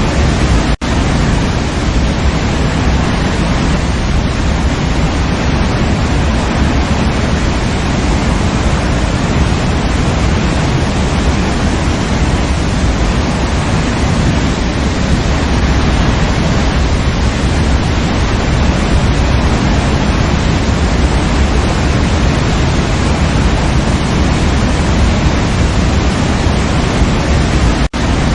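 Waterfall rushing in a steady, loud roar of falling water. The sound cuts out for an instant twice, about a second in and near the end.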